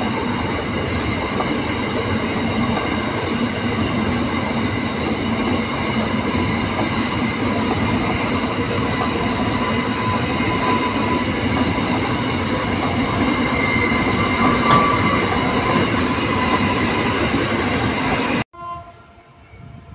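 Freight train hopper wagons rolling past close by: a steady rumble of steel wheels on rail, with thin high whining tones over it. It cuts off abruptly near the end.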